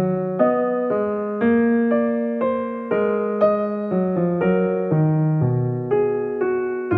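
Piano music: a gentle melody over chords, with notes struck about twice a second.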